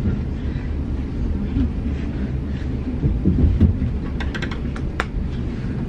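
Passenger train running, heard from inside the carriage as a steady low rumble. A short run of sharp clicks comes a little past halfway.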